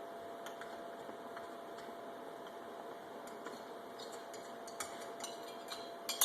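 Scattered light metallic clicks and ticks of hand tools and bolts as the cylinder base bolts of a chainsaw are threaded in, with a sharper clink near the end.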